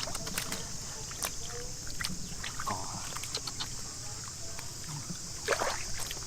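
Shallow water sloshing and splashing as a person wades and gropes by hand in a flooded field, with scattered small clicks and knocks. A steady high-pitched hiss runs underneath.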